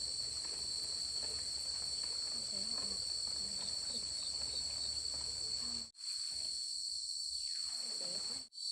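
Steady insect chorus, a continuous high-pitched trilling that breaks off twice for a moment, about six seconds in and near the end.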